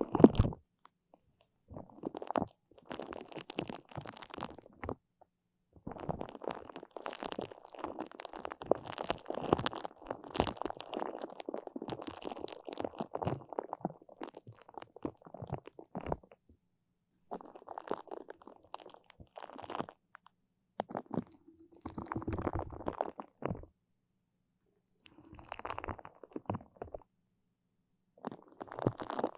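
Close-miked sticky, crackling sounds from something tacky pressed and pulled away near the microphone, in irregular bursts with dead-silent gaps between them; the longest run lasts about ten seconds in the first half.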